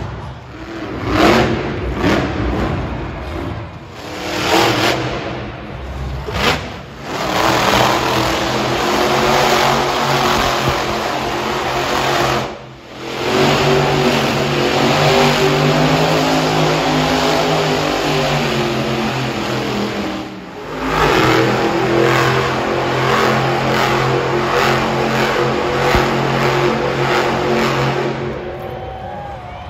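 Monster truck engines revving hard, the engine note rising and falling with the throttle. It breaks off abruptly twice where one clip gives way to the next.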